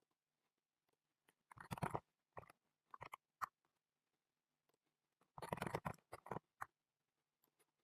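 Computer keyboard typing: two short flurries of rapid keystrokes, about a second and a half in and again about five seconds in, with a few single key taps between.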